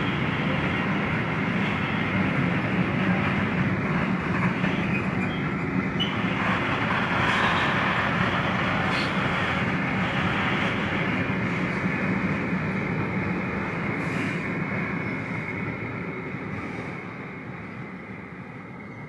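Freight train passing close by: a steady rumble of wagon wheels on the rails that fades over the last few seconds as the train moves off.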